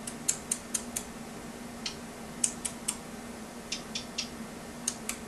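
Parrot's beak clicking and nibbling, sharp little clicks in quick groups of three or four, over a faint steady hum.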